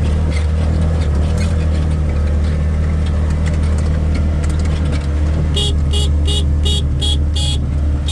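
Farm vehicle engine running steadily with a deep hum while driving. About two-thirds of the way in, a rapid series of short, evenly spaced beeps starts, about two to three a second.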